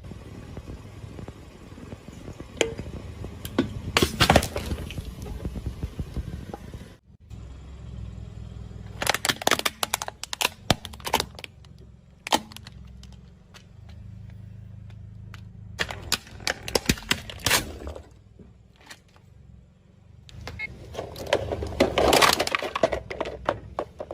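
A car tyre rolling slowly over brittle objects, crunching and cracking them in several bursts of sharp snaps over the car's steady low rumble.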